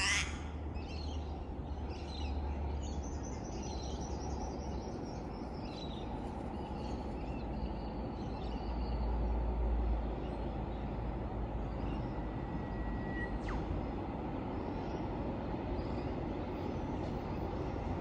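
Steady low rumble of a distant, approaching XPT diesel passenger train, with birds chirping and whistling over it. A crow caws once right at the start.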